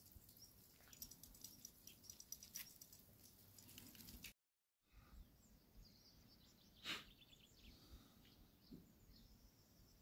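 Faint, scattered bird chirps against near silence. The sound cuts out completely for a moment a little after four seconds, and a single brief click stands out about seven seconds in.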